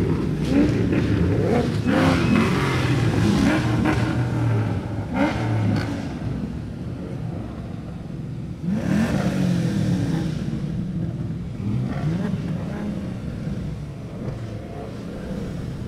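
A car engine revved several times, its pitch rising and falling with each blip of the throttle, with a sharp rev-up about nine seconds in.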